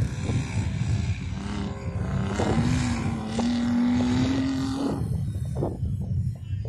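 An off-road 4x4's engine revving hard under load on a sand dune, its pitch rising steadily for a few seconds and then cutting off about five seconds in, over a steady low rumble.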